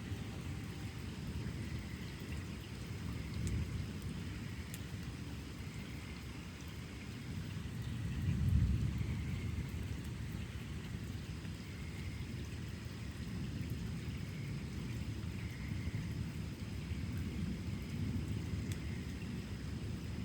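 Thunder rumbling on and off through steady rain, swelling to its loudest rumble about eight seconds in.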